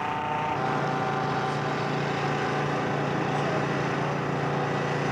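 Radio-controlled scale model aircraft engine running steadily, a constant buzzing drone.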